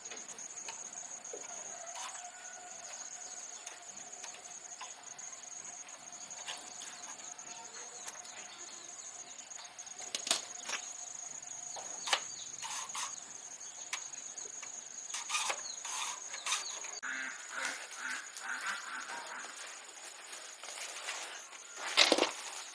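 Steady high-pitched insect drone, with scattered clicks and rustles, the loudest near the end, and a run of short chirping notes about two-thirds of the way through.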